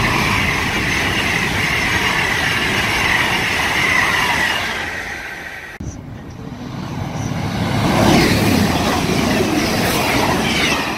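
Two express passenger trains passing at speed, a rush of wheel-on-rail and air noise. The first passing train's noise fades away, then after an abrupt break about six seconds in a second train approaches, is loudest a couple of seconds later as it rushes past, and starts to fade near the end.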